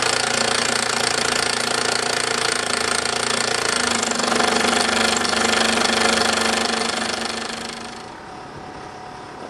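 Bowman M175 toy steam engine running fast under live steam: a steady rapid mechanical clatter with steam hissing, the boiler's safety valve leaking slightly. The sound drops noticeably about eight seconds in.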